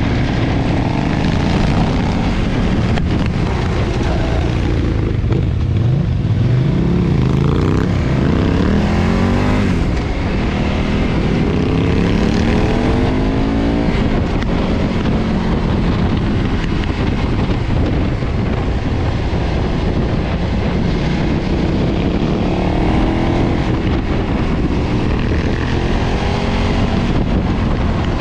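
KTM 990 V-twin motorcycle engine through its stock exhaust, under way with wind rush. The engine note rises several times as the bike accelerates through the gears.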